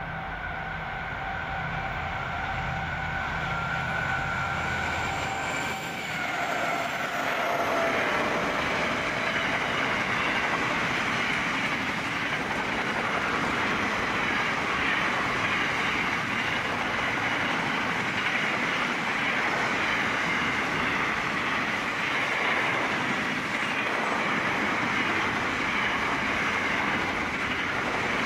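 A freight train with two SCT CSR-class diesel locomotives passes at speed. The locomotives' engine rumble and whine drop in pitch as they go by about six seconds in. They are followed by the steady rolling noise of a long string of container wagons' wheels on the rails.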